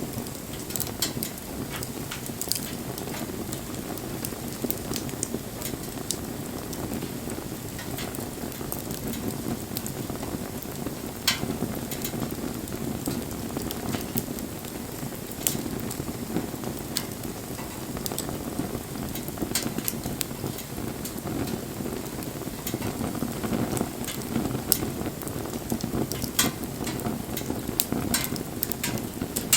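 Campfire burning: a steady low rush of flame with irregular crackles and sharp pops, a handful of them louder than the rest.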